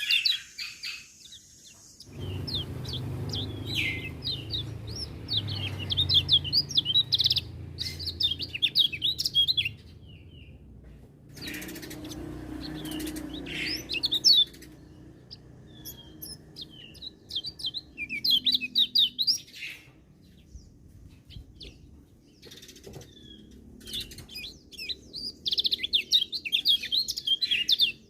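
Kecial kuning, a small white-eye songbird, singing in repeated bursts of rapid, high twittering chirps, each phrase a few seconds long with short pauses between. A low background rumble runs under the song for the first half.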